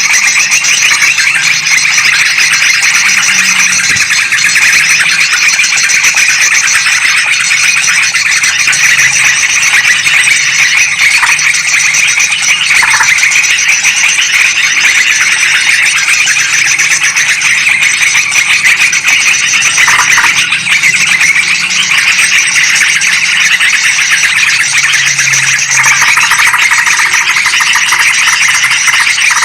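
Loud, unbroken, noisy calling of yellow-vented bulbuls mixed with sooty-headed bulbuls, played as a bird-trapping lure recording.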